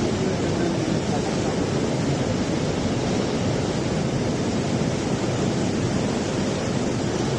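Steady roar of rushing water, even and unbroken.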